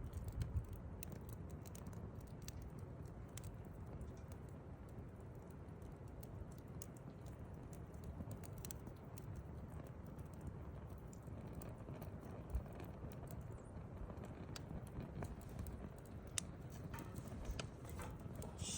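Wood campfire burning: a steady low rumble with scattered small crackles and sharp pops, two of them louder in the second half.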